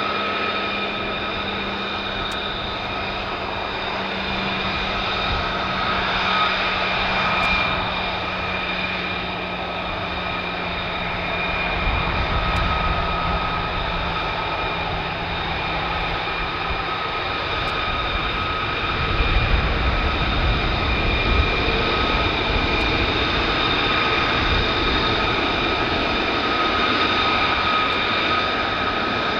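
Fighter jet engine running with a steady high whine over a broad roar. A deeper rumble swells about twelve seconds in and again a few seconds before the end.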